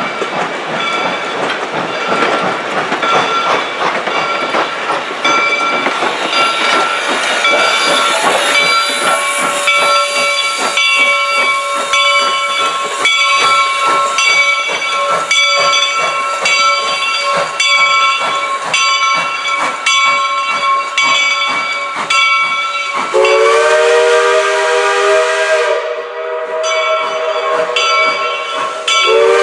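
Steam locomotive No. 425 hissing steam over a rapid clatter from its wheels and running gear. About 23 seconds in, its chime whistle sounds one long blast of about three seconds, and a second blast starts near the end.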